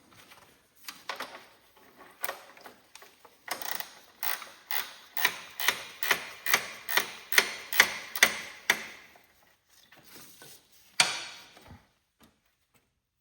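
Ratchet wrench clicking as a bolt is backed out, the clicks coming in a steady run of about two a second. One louder clack comes near the end.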